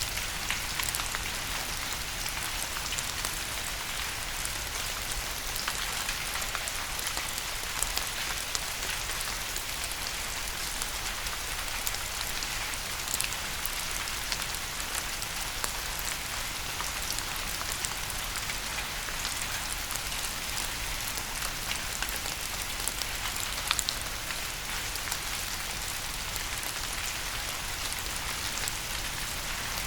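Steady rain falling: an even hiss with many sharp individual drop ticks scattered through it.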